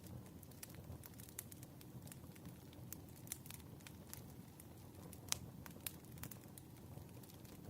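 Faint wood fire crackling: irregular sharp pops and snaps over a low, steady rumble of burning logs, with one louder pop a little past the middle.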